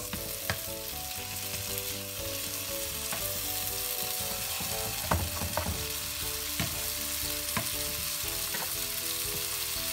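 Chopped tomatoes sizzling in hot oil in a frying pan over high heat, a steady hiss, with a spatula scraping and knocking against the pan now and then.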